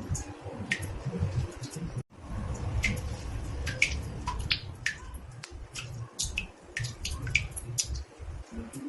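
Water drops falling into a bathtub, many irregular plinks, some in quick clusters, over a low rumble. The sound cuts out for an instant about two seconds in.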